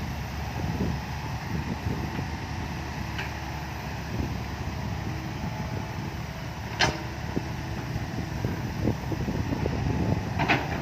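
Heavy diesel machinery running steadily with a low rumble, broken by a few short metallic knocks, the clearest about seven seconds in.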